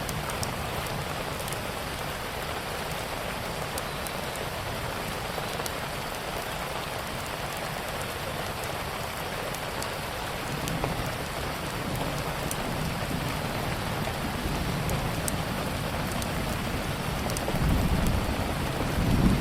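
Steady rain with the scattered sharp pops and crackles of a wood fire. A low rumble swells near the end.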